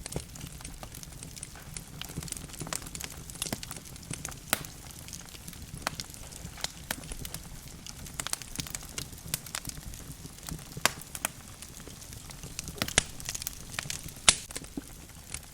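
Wood fire burning in a fireplace: logs crackling with irregular sharp pops over a low steady rumble of the flames, a few louder snaps among them.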